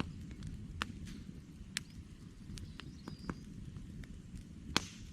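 Wood campfire crackling: irregular sharp pops and snaps over a low, steady rumble of the flames, with the loudest pop near the end.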